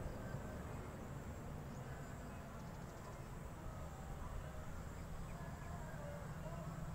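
Faint low rumble of an approaching train, growing slightly stronger near the end, with scattered faint bird chirps.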